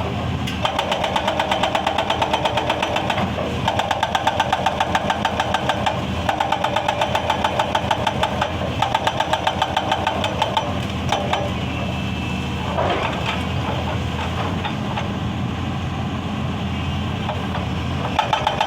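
Excavator's hydraulic breaker hammering stone in bursts of rapid, evenly spaced blows over the steady diesel engine drone. Four bursts with short pauses between them come first, then a longer stretch of the engine running alone, and the hammering starts again near the end.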